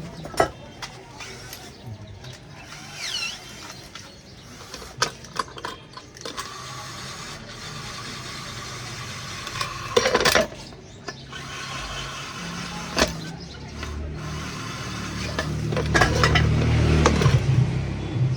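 Workshop tool noise: scattered sharp knocks and clanks, with a machine running from about six seconds in that gets louder near the end.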